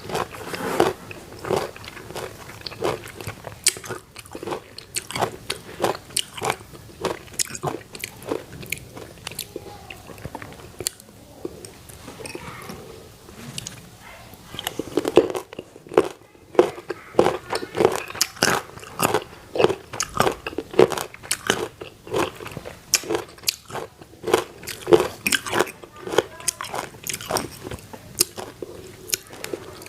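Crisp fresh fruit being bitten and chewed close to the microphone: many sharp crunches with chewing in between. The crunches thin out around the middle and come thick again in the second half.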